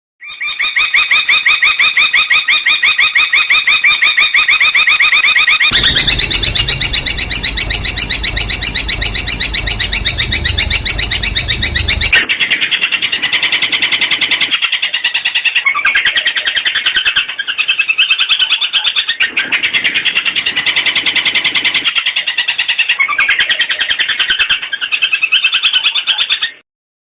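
Long-tailed shrike (cendet) singing in fast runs of sharp, rapidly repeated notes, about ten a second. The song comes in spliced stretches: one steady run, then a stretch with a low rumble underneath, then shorter bursts with brief pauses between them. It cuts off just before the end.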